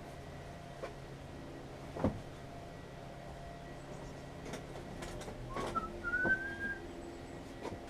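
Scattered light clicks and knocks of small mower parts and tools being handled, the loudest about two seconds in, over a faint steady hum. About six seconds in, a single short whistle rises and then holds.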